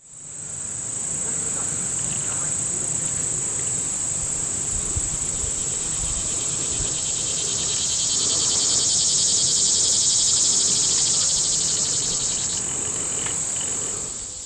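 Chorus of crickets or other insects: a steady high-pitched trilling that grows a little louder about halfway through, over faint low background rumble.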